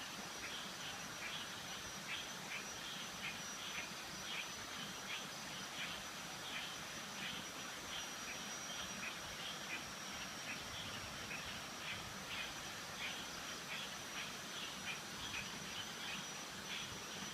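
Frogs calling with short, repeated croaks about two a second, over a steady high-pitched insect drone and the even rush of a creek.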